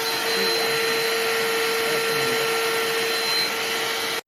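BLACK+DECKER 20V dustbuster cordless handheld vacuum (BDH2000L) running steadily: a loud rush of air with a steady motor whine, stopping abruptly near the end.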